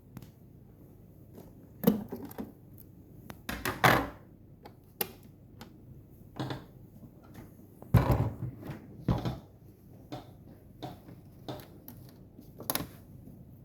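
Irregular clicks, taps and knocks of hands handling plastic parts and tools at a bench, the loudest about two, four, eight and nine seconds in.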